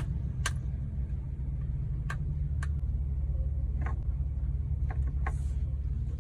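A GMC Savana van's engine idling with a steady low rumble, with a handful of sharp clicks scattered over it.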